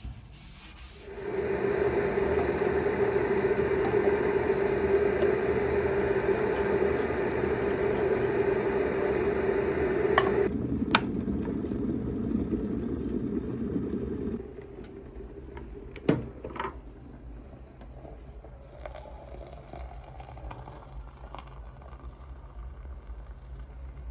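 A small electric motor runs with a steady hum for about thirteen seconds. Its sound changes about ten seconds in, and it switches off, followed by a couple of sharp clicks.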